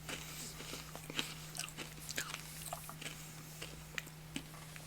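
A person chewing a freeze-dried Skittle: small irregular crunches and mouth clicks, faint, over a steady low hum.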